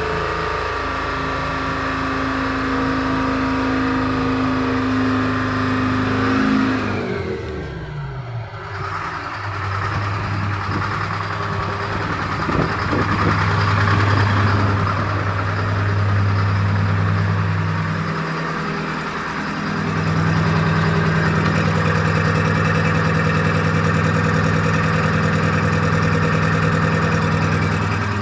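Detroit Diesel engine of a Chevrolet GM truck running loudly through its exhaust. It holds steady revs, drops sharply in pitch about a quarter of the way in, then runs steadily at lower revs, with a short dip about two-thirds of the way through.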